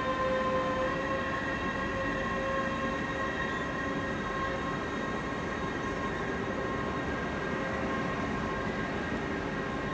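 Double-deck regional train rolling slowly past, with a steady rumble and a high whine of several held tones that slowly fades.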